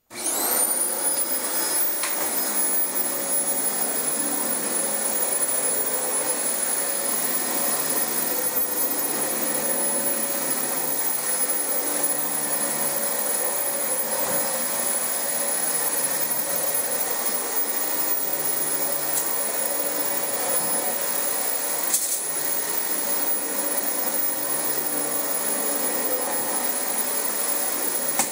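Dyson DC25 upright vacuum cleaner switched on, its motor spinning up with a rising whine, then running steadily over carpet. A single sharp click about three-quarters of the way through.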